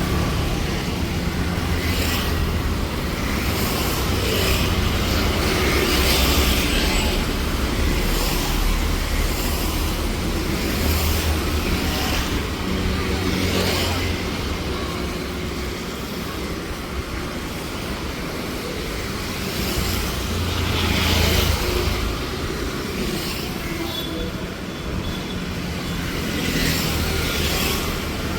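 Busy city street traffic: a steady rumble of passing cars and other motor vehicles, swelling and easing as they go by.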